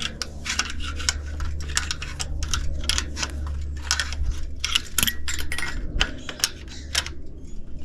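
Irregular metal clicks and clinks from hand tools working on the metal and copper parts of an old air conditioner condenser being scrapped, over a steady low hum.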